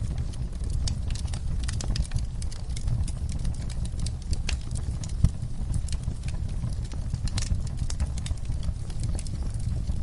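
Wood fire crackling, with irregular sharp crackles and pops over a steady low rumble; one louder pop about five seconds in.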